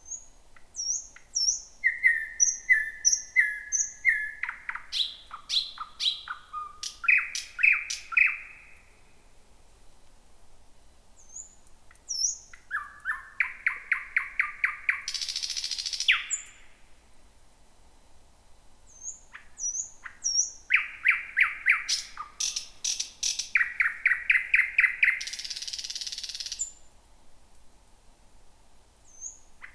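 Thrush nightingale singing three phrases with short pauses between. Each phrase is built of fast repeated notes, thin high whistles and dry clicks, and the second and third each end in a harsh buzzing rattle.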